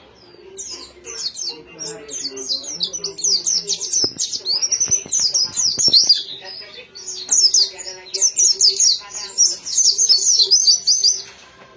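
White-eye (pleci) singing a fast, high twittering song in long runs, with a short pause around the middle. A few sharp clicks come in around the middle, over a low steady hum.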